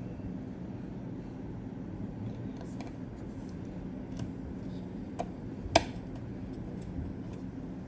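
Light clicks and taps of PC parts and packaging being handled, over a steady low hum; one sharper click comes a little before six seconds in.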